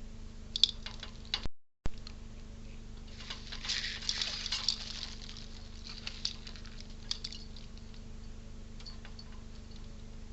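Squirrel feeding at a bird feeder: scattered sharp clicks and patter of claws and seed on the feeder, with a denser crackling, rustling flurry a few seconds in. A steady low hum runs underneath.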